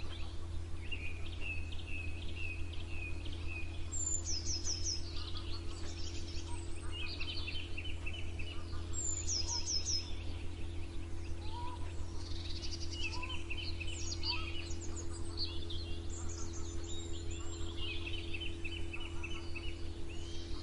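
Several songbirds singing and calling together: short repeated chirps and quick high trills, one bird after another, over a steady low hum.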